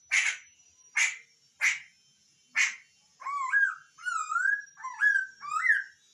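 A poksay (laughingthrush) calling: four short harsh calls about a second apart, then a run of loud warbling whistled phrases that slide up and down in pitch for the last three seconds.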